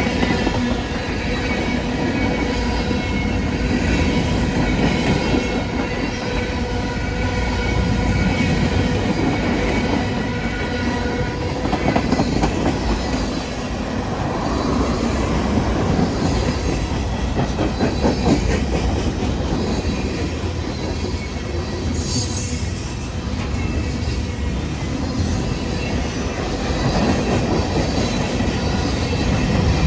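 Train cars rolling past, wheels clacking over the rail joints in a steady rumble. A steady ringing tone sits over the noise for the first dozen seconds or so.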